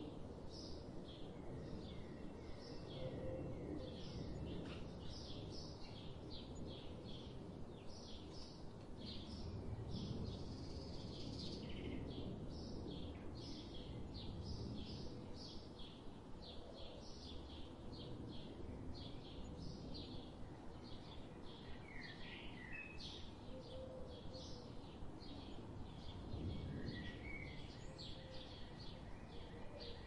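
Songbirds singing, a continuous stream of rapid, high chirping notes from several birds, with a few lower downward-slurred calls near the end, over a steady low background rumble.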